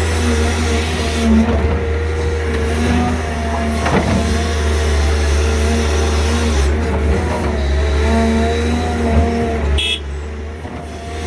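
Six-cylinder diesel engines of hydraulic excavators working hard while digging, the engine note wavering up and down with the load. There is a sharp knock about four seconds in, and the engine sound drops a little near the end.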